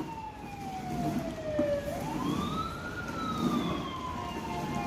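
Electronic siren of an ELC toy fire truck wailing in slow sweeps: the pitch falls, rises to a peak about three seconds in, then falls again.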